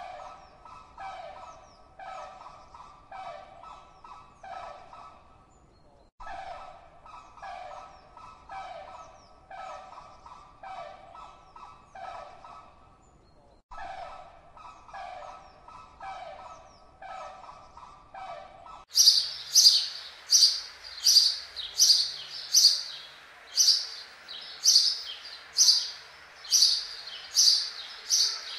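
A bird call repeats evenly, about one and a half times a second, with two short breaks. About two-thirds of the way in it gives way to louder, high, sharp house sparrow chirps at about the same pace.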